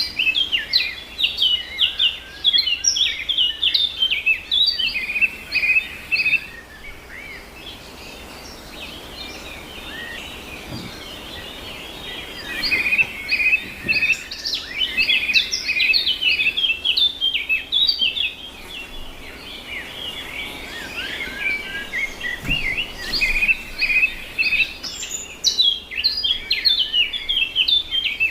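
Small birds chirping and twittering in rapid high notes, in three long spells of song with quieter lulls between them.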